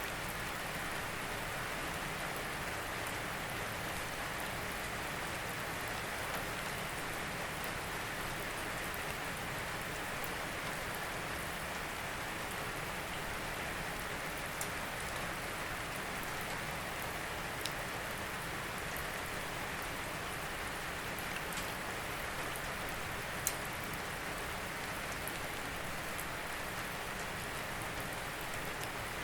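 Steady rain falling, an even hiss with scattered sharper drips and ticks of drops on a surface, one a little louder about 23 seconds in.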